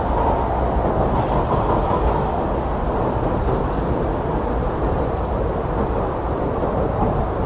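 Blizzard wind rushing steadily and deeply, with a faint howl over it in the first two seconds.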